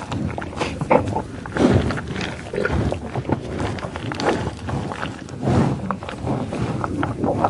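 An animal's short calls, repeated at irregular intervals.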